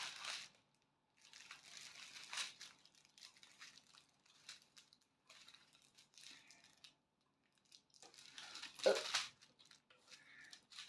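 Faint crinkling of small plastic bags of diamond-painting drills being handled, in short scattered rustles, louder once about two seconds in and again near the end.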